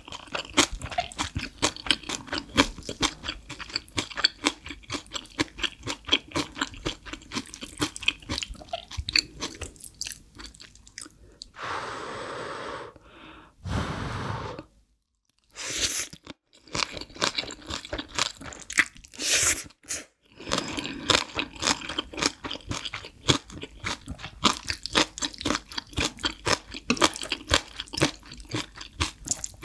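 Close-miked chewing of green onion kimchi and black bean noodles: a fast, steady run of wet, crunchy bites, broken briefly a little before the middle by a longer noisy sound and a short gap.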